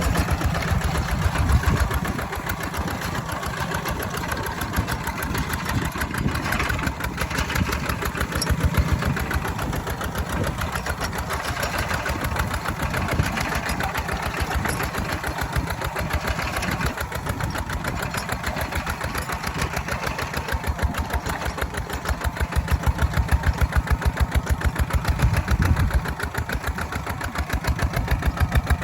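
Walking tractor engine running with a fast, even chugging while ploughing. It gets louder for a few seconds in the second half.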